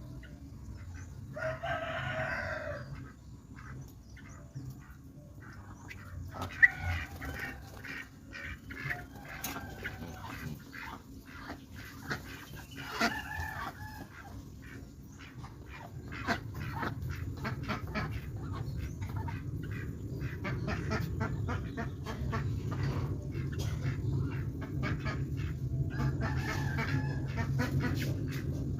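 A rooster crows once, about two seconds in, with more fowl calls later, scattered clicks, and a steady low hum that grows louder in the second half.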